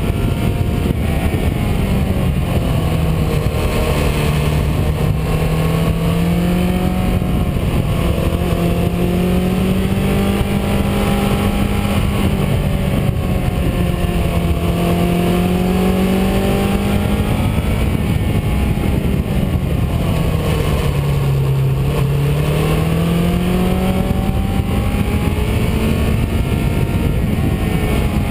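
Car engine and road noise while driving, the engine note repeatedly falling and rising as the car slows for bends and speeds up again on a winding road.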